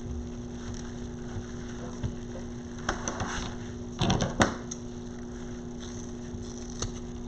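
Scissors snipping off leftover craft material in a few short clusters of clicks, over a steady low background hum.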